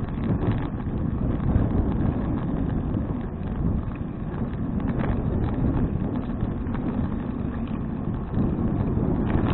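Wind rushing over the microphone of a bicycle-mounted action camera while riding: a fluctuating low rumble, with scattered faint clicks and rattles.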